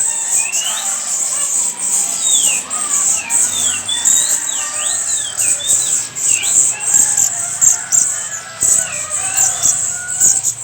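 Many caged songbirds chirping, short calls sliding up and down in pitch one after another, over a steady high-pitched hiss.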